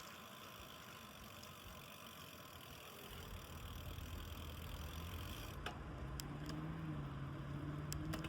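A car engine coming up and getting louder from about three seconds in, its note rising slightly, over steady wind and road noise. There are a few sharp clicks near the end.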